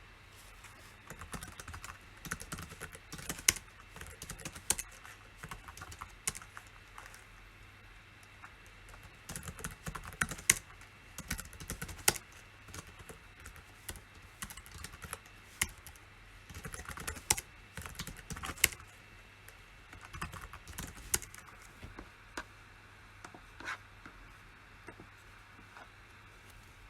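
Typing on a computer keyboard in irregular bursts with short pauses, with a few louder single key strikes; the typing stops a few seconds before the end.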